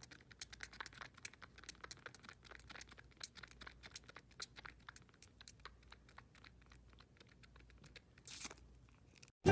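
Faint, irregular crackling and clicking, several small clicks a second, with a short hiss about eight seconds in.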